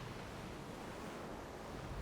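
Ocean waves washing steadily on a shore, a soft even rush of surf.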